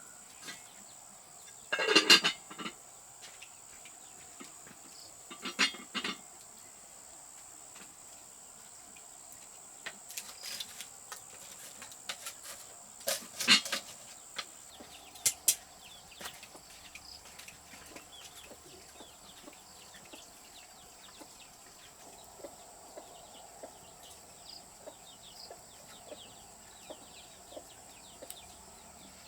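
Chickens calling, with three loud squawks about 2, 6 and 13 seconds in, over a thin steady high hum and scattered light clicks and taps.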